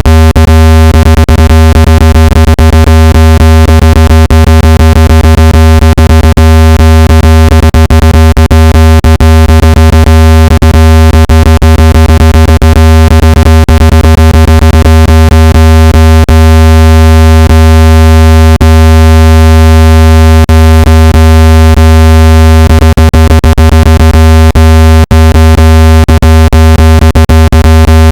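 Loud, steady, low-pitched synthetic speaker-cleaning tone, the kind played through a phone speaker to shake out water and dust. It holds one pitch, sounds buzzy and rich in overtones, and is broken by frequent brief clicks.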